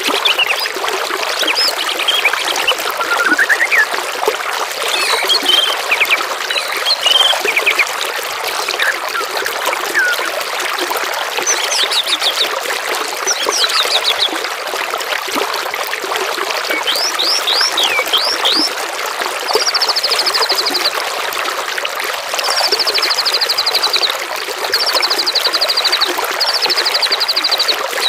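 Steady trickling, gurgling water with songbirds calling over it: scattered short whistles and chirps, then from the middle onward a series of rapid, high buzzy trills repeated every second or two.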